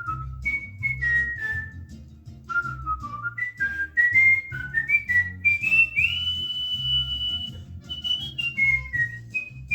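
Cockatiel whistling a tune: a run of short whistled notes stepping up and down, with one long held high note in the middle before the phrase steps back down.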